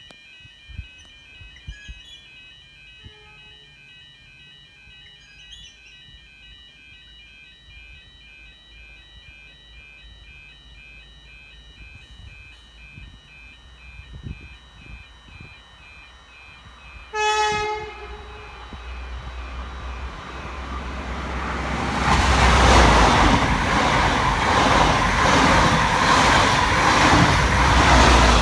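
Level crossing bells ringing steadily in a pulsing pattern. About 17 seconds in, the XPT's horn gives one short blast. The XPT then approaches and runs through at speed, a loud, rising rush of diesel power car and wheels with a rhythmic clatter on the rails.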